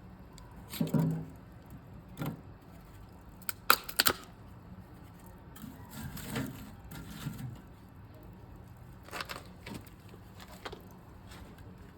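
Scattered knocks and clacks of firewood being handled at a small wood-burning tent stove while relighting a fire that has died down to live embers. The loudest is a quick run of sharp knocks about four seconds in.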